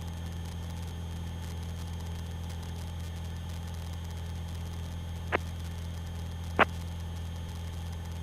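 Aerobatic light aircraft's engine droning steadily in cruise, heard as a low hum through the cockpit intercom, with two short clicks about five and six and a half seconds in.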